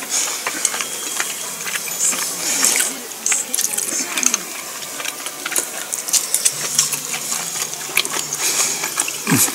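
Close-up chewing and mouth sounds of someone eating, with many small irregular wet clicks. A short falling hum comes near the end.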